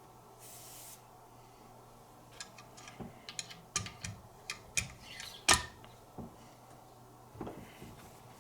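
Clicks and knocks of Wicked Edge sharpening stones being handled and set up, a scattered run of taps with one sharper knock about five and a half seconds in.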